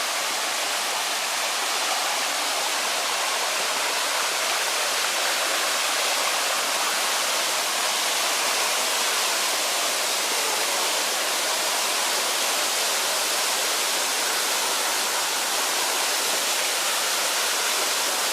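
Rushing water of the Kobalar-Su mountain river, a steady, even hiss of falling and flowing water.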